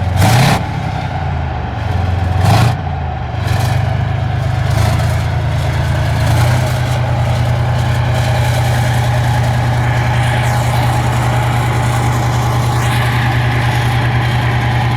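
T-72 tank's V12 diesel engine: two short throttle blips in the first three seconds, each a brief rise in revs, then a steady idle.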